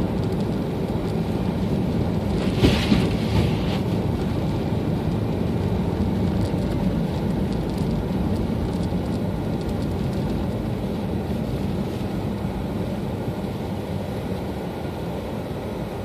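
A car being driven gives a steady low rumble of engine and tyre noise, with a brief louder rush about three seconds in.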